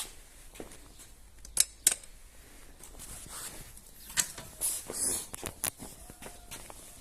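A few sharp plastic clicks and knocks, scattered unevenly: the loose headlight fairing of a motorcycle knocking.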